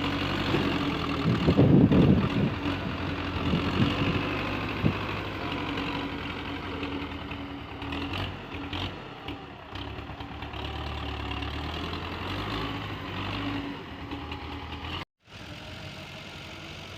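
Tractor diesel engine running steadily, with a louder burst of engine sound about two seconds in and a brief cut-out near the end.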